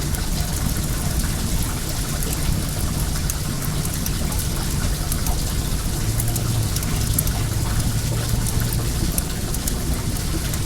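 Well water running in a steady stream, with a wood fire crackling in sharp little pops over it. A low hum rises in about six seconds in and fades out around nine seconds.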